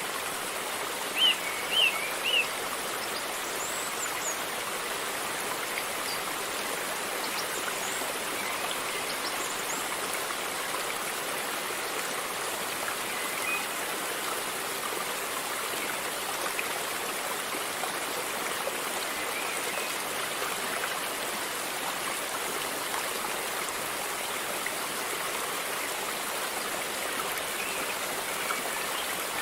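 River water flowing steadily, an even rushing sound. Three short, high chirps stand out about a second in, with fainter chirps now and then.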